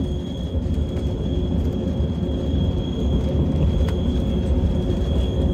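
Steady low rumble of the Yellow Train's narrow-gauge electric railcar running on the track, heard from inside the carriage, with a thin steady high whine over it and a faint click about four seconds in.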